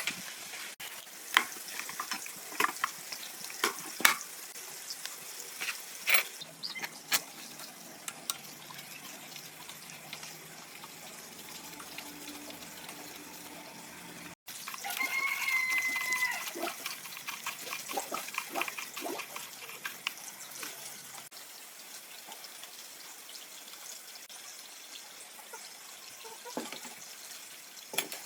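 A rooster crowing once, a single held call about halfway through, over a steady hiss and scattered small clicks and taps.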